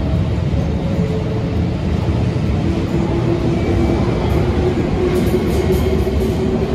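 A train running by: a steady loud rumble of wheels on rails, with a humming tone that comes in about a third of the way through.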